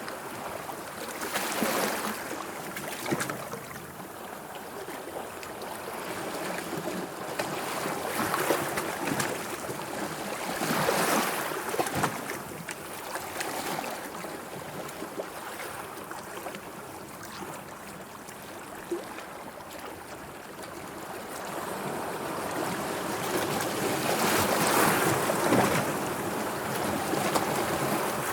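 Sea waves washing in and drawing back, a steady rush that swells into louder surges every few seconds, the biggest near the end.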